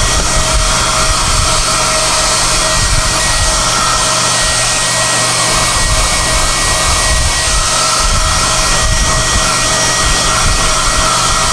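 SOUNATE high-airflow hair dryer running steadily on high: a loud rush of air with a constant high-pitched motor whine.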